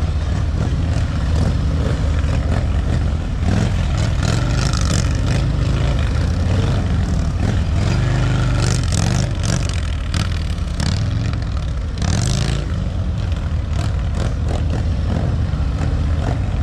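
Motorcycle engines running steadily at low revs, a continuous low rumble without big revving, with a few brief higher rushes of noise about four, eight and twelve seconds in.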